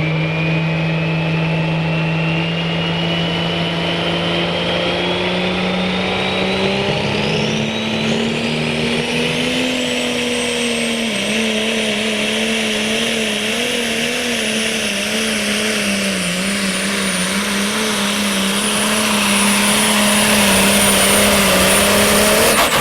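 Super stock pulling tractor's engine running flat out under load, its pitch climbing over the first several seconds and then wavering up and down. A high turbocharger whine rises steadily in pitch over the first ten seconds and then holds, the whole getting a little louder near the end.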